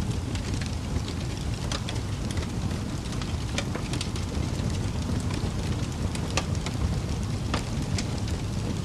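Wood fire burning in a fireplace: a steady low rumble of flames with irregular sharp pops and crackles from the burning logs.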